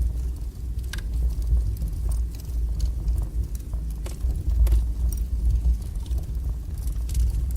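Strong wood fire burning in a fireplace: a steady low rumble of the flames with scattered sharp crackles and pops.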